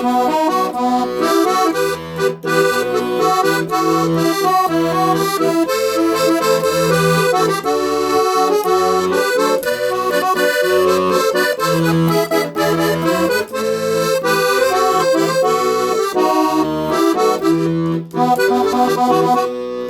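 Accordion playing an instrumental interlude of a hymn tune in E minor, sustained chords with a melody over a steady bass pattern.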